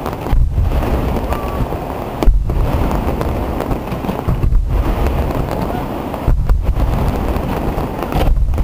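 Fireworks display in a dense barrage: a continuous rumble of booms and crackle, with louder surges about two and six seconds in.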